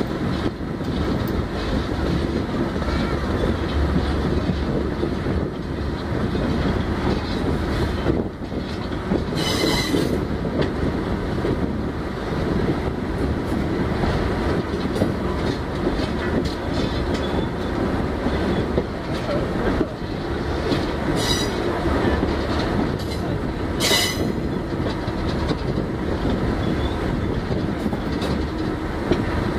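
Train heard from on board as it rolls slowly along a museum line: a steady low engine and running rumble with wheel-on-rail noise, and three short high wheel squeals, about a third of the way in and twice near the two-thirds mark.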